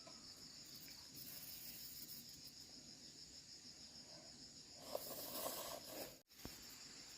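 Insects chirring steadily in a high, fast-pulsing trill. A short louder burst of noise comes about five seconds in, and the sound drops out for an instant just after it.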